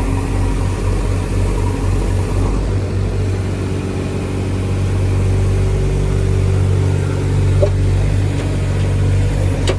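Diesel engine of a heavy backhoe loader or excavator running at working revs. It throbs at first, then runs steadier and a little louder from about halfway.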